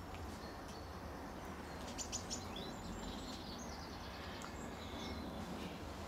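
Small birds calling and singing: a cluster of short, high notes about two seconds in, then a falling run of notes and a few more high notes later, over steady low background noise.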